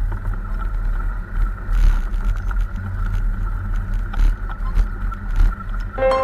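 A motorbike riding along a road: a steady low rumble of engine and wind noise, with a few short knocks.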